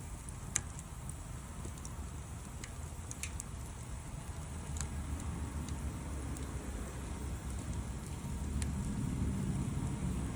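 Wood fire crackling, with a few sharp pops spread through it, the strongest about half a second in. Under it runs a low rumble that swells near the end.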